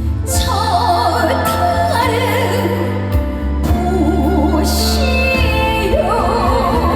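Trot song in Korean traditional (gugak) style performed live: a woman singing with wavering vibrato over an amplified band with steady bass notes.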